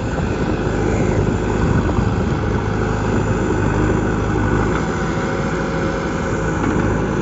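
Diesel engine of a JCB 3DX backhoe loader running steadily with a continuous drone.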